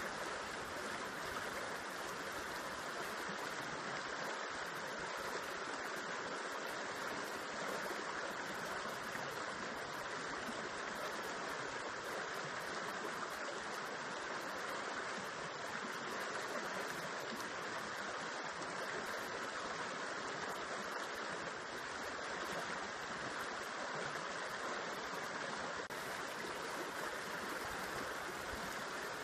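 River water running over rocks and spilling into a pool: a steady, even rush of flowing water.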